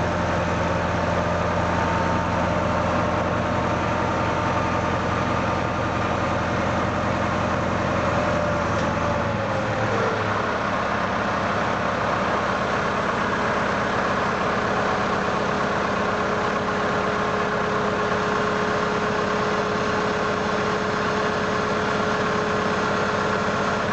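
Tractor engine running steadily. About ten seconds in its pitch drops slightly and it settles at a lower, steady speed.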